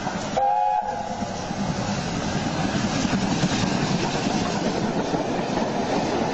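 A train passing close by, a steady rushing rumble with wheel clatter that builds and holds. A brief tone sounds about half a second in.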